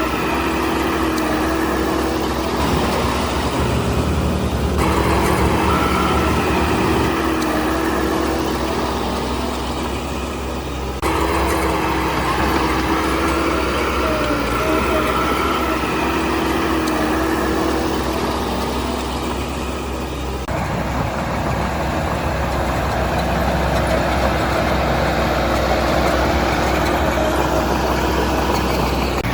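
Heavy diesel engine of earthmoving machinery running under load, its pitch wavering slightly, with the sound changing abruptly three times where the footage is cut.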